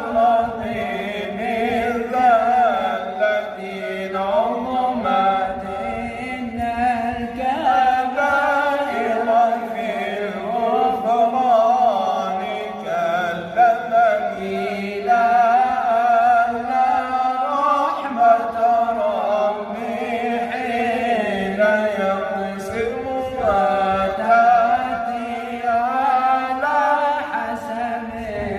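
A male voice chanting an Arabic Islamic devotional poem (madih), in long, continuous melismatic lines whose pitch bends and wavers on the held notes.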